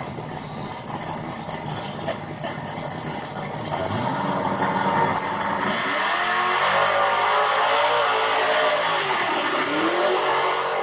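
Muscle car engine accelerating hard, quieter for the first few seconds, then louder from about four seconds in, its pitch sweeping up and down twice.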